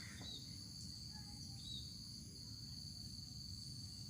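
Faint, steady high-pitched insect chorus, likely crickets, over a low background rumble.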